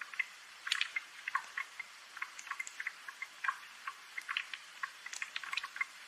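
Light rain: many small drops ticking and dripping at an irregular pace over a soft hiss.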